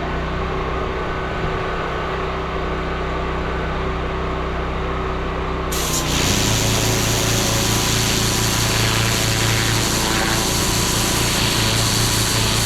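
Pressure washer's engine running steadily; about six seconds in the spray is triggered, and a loud hiss of the water jet joins as the engine note changes under load.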